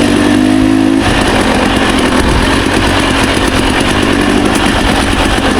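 Dirt bike engine running steadily while the bike rides along a trail. A clear, even engine note in the first second gives way to a rougher, noisier engine sound for the rest.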